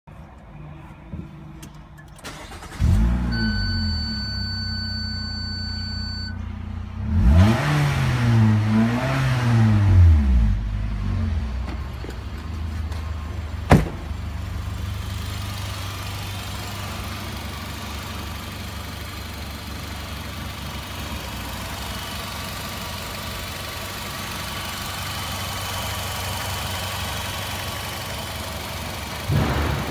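A 2013 Renault Koleos's 2.5-litre petrol four-cylinder engine cranks and starts about three seconds in. A steady high tone sounds for a few seconds, then the engine is revved up and back down twice. After a single sharp click it settles into a steady idle.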